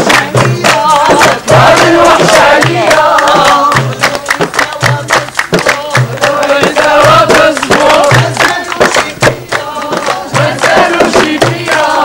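A group of voices singing a chant together, over a regular percussive beat that repeats about once a second.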